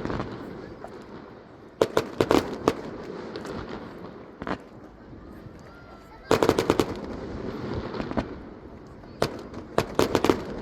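Aerial fireworks going off in three volleys of rapid cracks and bangs, each followed by a rumbling echo that fades.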